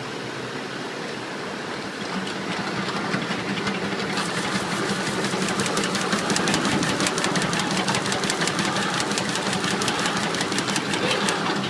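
Bottle labelling machine running: a steady mechanical hum, joined about four seconds in by rapid, even clicking that stops shortly before the end.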